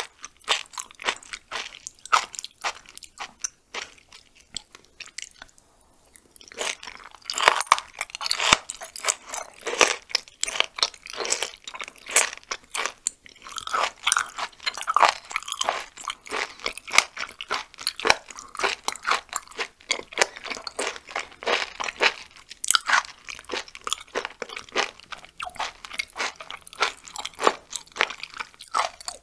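Close-miked chewing of raw chicken gizzard: a rapid run of crisp, crunchy bites and chews. It goes quieter for a couple of seconds about five seconds in, then the crunching is dense again.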